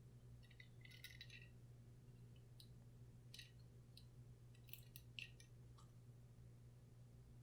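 Near silence over a low steady hum, with a few faint light clicks and clinks from a small die-cast toy car being handled.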